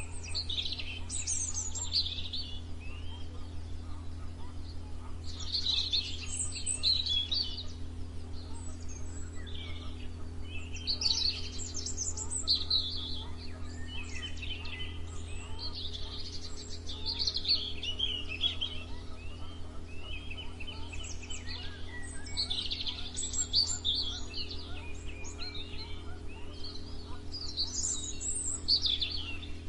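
Songbirds singing in a morning chorus: quick, warbling, chirping phrases that come in bursts every few seconds and overlap. A steady low hum runs underneath.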